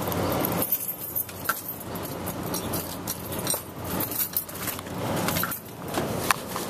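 A bunch of keys jangling, with scattered small clicks and rustling.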